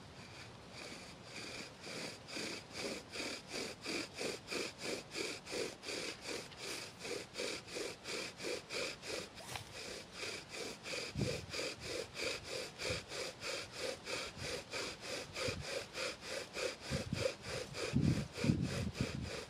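Wooden bow drill being worked: the bow saws back and forth at about three strokes a second, and the spindle squeaks in the hearth board with each stroke. Some louder low knocks come in near the end.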